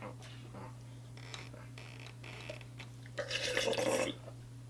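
Someone eating from a cup with a spoon: small clicks and scrapes, then a louder scraping rustle lasting about a second, three seconds in. A steady electrical hum runs underneath.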